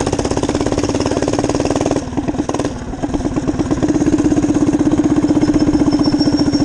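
Small minibike engine running with steady firing pulses. It drops off briefly about two seconds in, then picks back up and runs louder.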